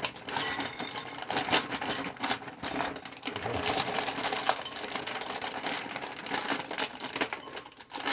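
Plastic food packaging being handled and dug through: a dense run of crinkling and rattling clicks from a bag of frozen skillet-meal pieces.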